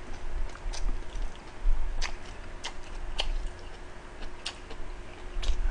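A person eating close to the microphone: chewing, with a handful of short sharp clicks and taps of chopsticks against the plate and bowls.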